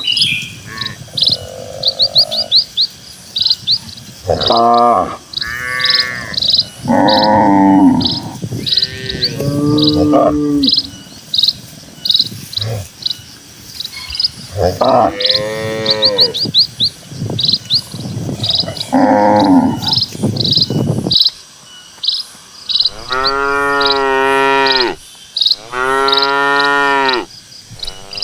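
Cattle mooing again and again, each call lasting a second or two, the last three longer and louder than the rest. Quick, high chirps repeat steadily underneath.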